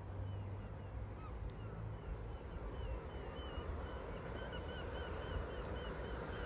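Birds calling over and over in short squiggly chirps, a few a second, over a steady low rumble.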